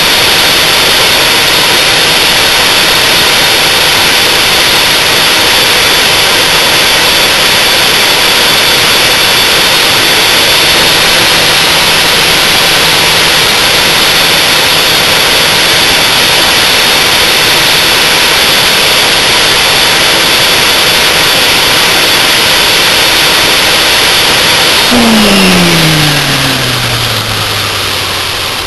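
Small home-built turbine jet engine on an afterburner test, running with a loud, steady roar. About 25 seconds in, it winds down with a falling whine as the roar fades: the engine spooling down.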